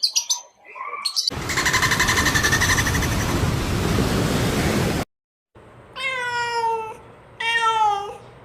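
Domestic cat meowing twice, two separate drawn-out calls about a second each, near the end. Before them a loud, rough, hissing noise runs for about four seconds and cuts off.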